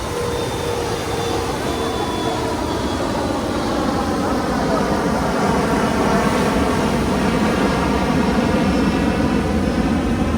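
An airplane flying past, its engine drone growing gradually louder, over the steady wash of the ocean surf.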